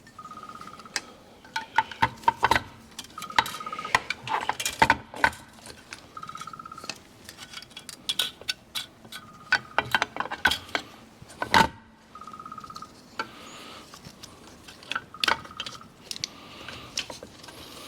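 Metal parts and hand tools clinking, tapping and clattering as throttle-body parts are fitted together by hand. A short buzzing beep repeats about every three seconds.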